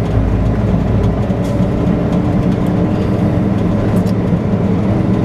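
Semi truck's diesel engine running steadily as the truck drives slowly, heard from inside the cab as a low rumble with a steady hum.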